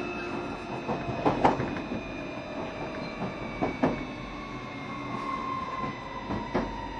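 Running sound inside a JR Shikoku 7200 series electric train: the wheels click over rail joints in quick pairs about every two and a half seconds. Over the steady rumble, the motor whine slowly falls in pitch as the train slows.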